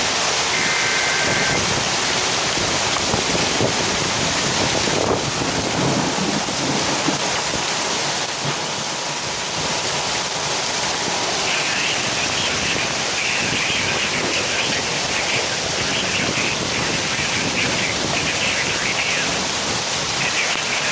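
Heavy rain pouring down in a steady, loud hiss, with one sharp knock about five seconds in.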